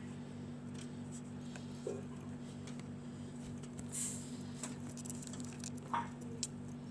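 Pet lovebirds moving about with faint scattered clicks and a few short squeaky chirps, one high squeak about four seconds in and another chirp near six seconds, over a steady low hum.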